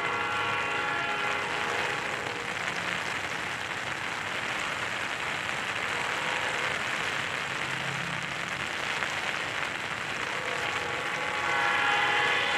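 Freight train of loaded flatcars rolling past, a steady wash of noise. A chord of several held high tones sounds at the start and again near the end, louder there.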